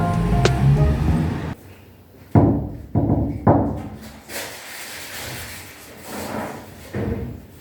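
Background music ending about one and a half seconds in, followed by three dull thumps in quick succession and then faint scattered knocks and rustles.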